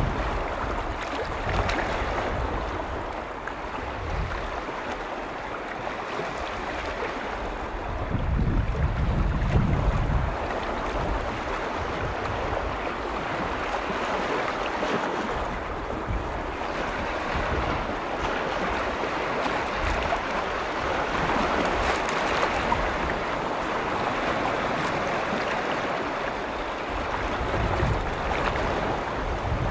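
Freshwater lake waves washing against the shore in a steady wash, with gusts of wind rumbling on the microphone, the strongest about eight to ten seconds in.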